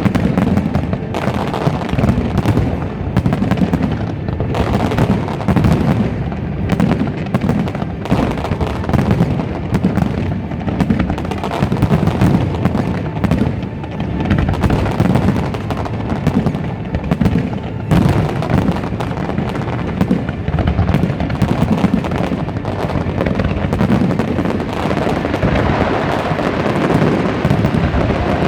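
Fireworks display bursting continuously, a rapid, dense barrage of bangs and booms with heavy low rumble, with no break.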